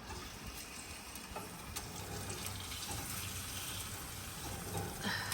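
Water running steadily from a tap, with a few light knocks.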